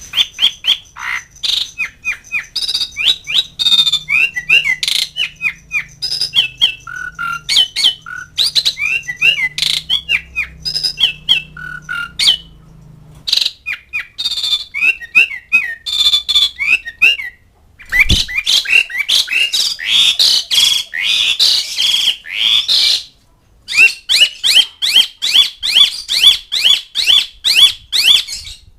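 Asian pied starling calling: long, rapid runs of loud chattering squawks and whistled notes, broken by three short pauses, ending in a fast, even string of rising notes.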